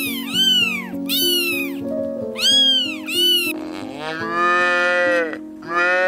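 A cat meowing about five times in quick succession, then a cow mooing in long drawn-out calls from a little past the middle, over background music with a simple melody.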